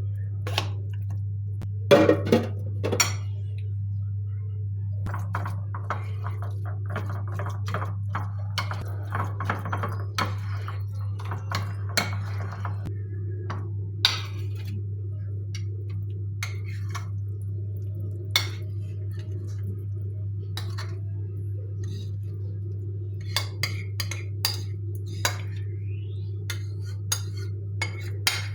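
Dishes and cutlery clinking and knocking now and then, busier in the first half and again near the end, over a steady low hum.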